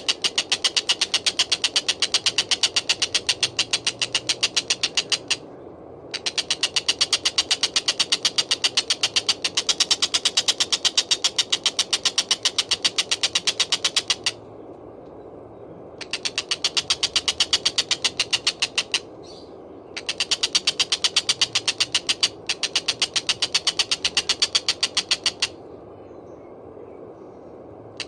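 Collared kingfisher (tengkek buto) calling: long runs of rapid, sharp repeated notes, each run lasting several seconds, broken by short pauses, over a faint steady hiss.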